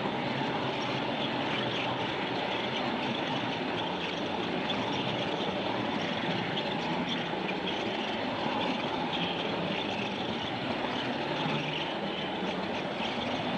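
Train running steadily along the track, a constant rumble with rail noise.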